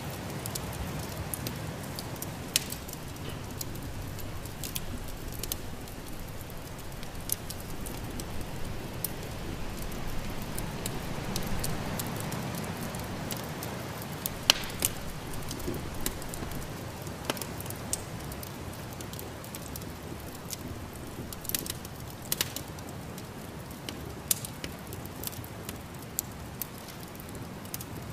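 Wood fire burning in a fireplace, crackling with irregular sharp pops and snaps over a steady low rushing sound.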